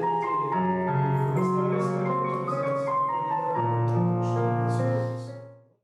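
Piano music: slow held notes and chords, fading out near the end.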